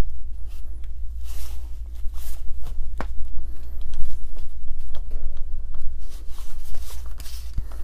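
Small parts of a rotary hammer's gear housing being handled and fitted on a workbench: scattered clicks and knocks, with short scraping and rustling sounds. A steady low hum runs underneath.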